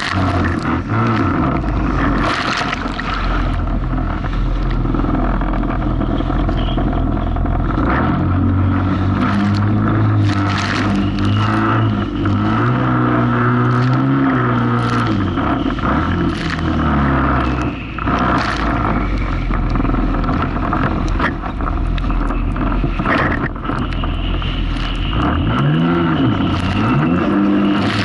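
Jet ski engine running under throttle, its pitch rising and falling again and again as it rides over choppy waves, with repeated splashes and slaps of water against the hull.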